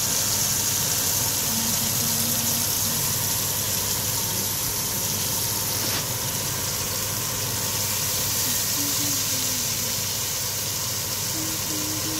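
Marinated chicken pieces sizzling steadily in hot oil in a frying pan.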